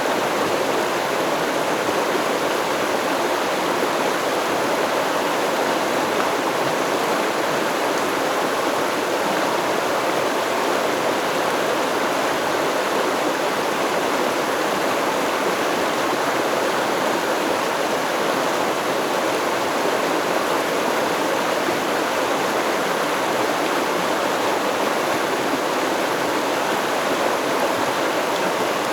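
Stream water flowing over stones in a steady, even rush.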